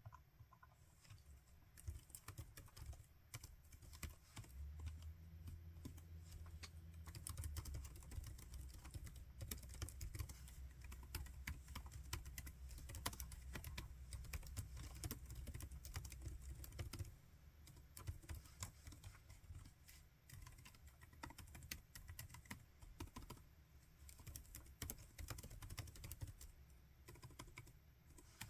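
Laptop keyboard being typed on, a fast, steady run of faint key clicks that starts about two seconds in. A low hum sits underneath through the middle of the stretch.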